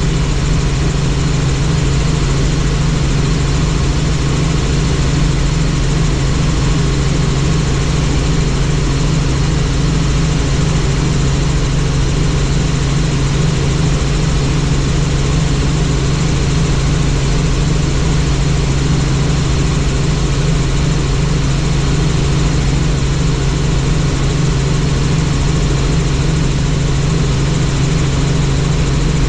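Helicopter in flight, heard on board: a steady, loud rotor chop over the engine's running noise.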